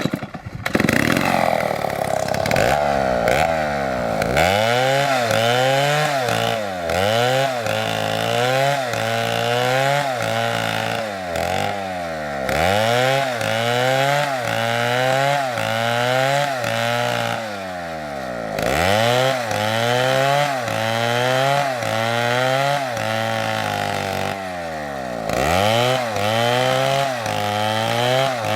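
STIHL two-stroke chainsaw starting up suddenly and revving, then cutting wood, its engine note rising and falling over and over, about once every one to two seconds, as it works through the cut.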